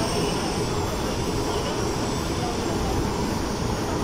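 MTR Tung Chung line CAF train running along the track: a steady rumble of wheels and running gear, with a faint high whine that dips slightly in pitch about a second in.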